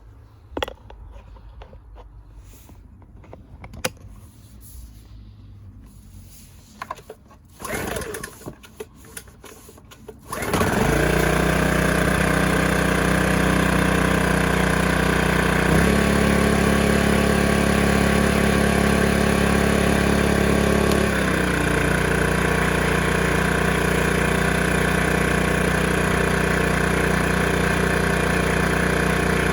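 Draper 1000 W inverter generator's small petrol engine cold-started by pull cord: a few clicks of handling, a pull that doesn't catch, then it fires on the second pull about ten seconds in and runs steadily. Its engine note shifts for about five seconds midway, then settles back to a steady run.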